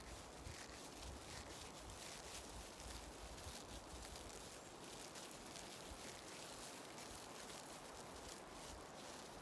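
Faint rustling and crackling of a spruce branch and dry leaves, in quick irregular ticks over a steady outdoor hiss.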